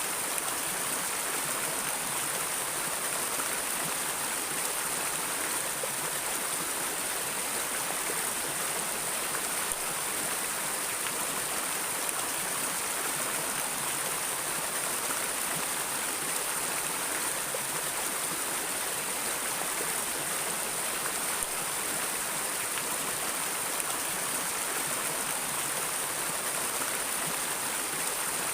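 A stream of water flowing steadily over rocks, a constant rushing hiss with no pauses.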